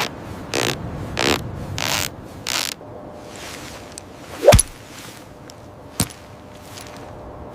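Footsteps crunching through snow, about one and a half steps a second, stopping after nearly three seconds. Then a single loud sharp crack with a short falling ring, typical of ice cracking, and a thinner sharp snap about a second and a half later.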